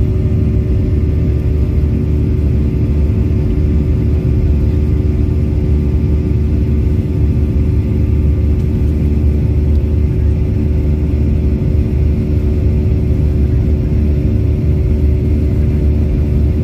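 Airliner's jet engines at takeoff or climb power: a steady, loud low rumble with a constant hum running through it.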